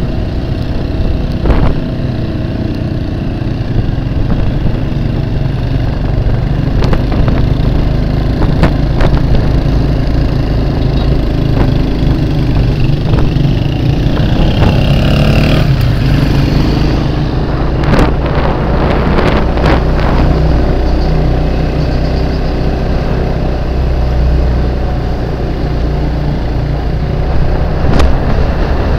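Motorcycle engine running steadily while riding through street traffic, with other vehicles around. There are a few sharp knocks and a brief falling high-pitched squeal about halfway through.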